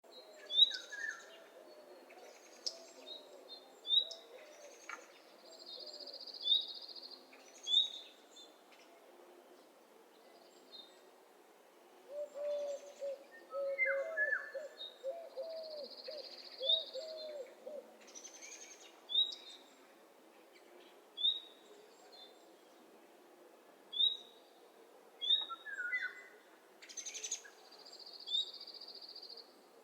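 Several birds calling: short high chirps repeating every second or two, a buzzy high trill held about a second, three times, and a run of low, repeated warbling calls around the middle.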